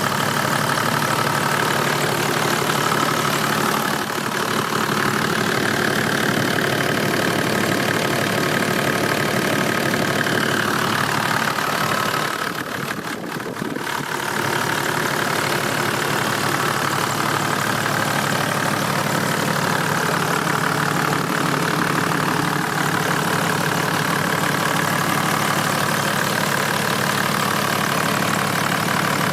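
Toyota 1HD-T 4.2-litre inline-six turbo diesel idling steadily, with a brief dip in loudness about twelve seconds in.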